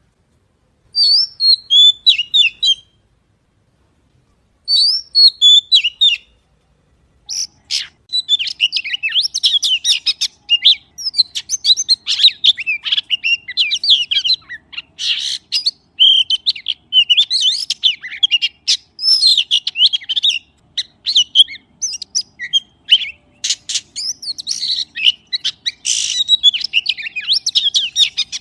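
Magpie chirping in quick runs of high, varied notes. Two short bouts come with pauses between them, then it chirps almost without a break from about seven seconds in.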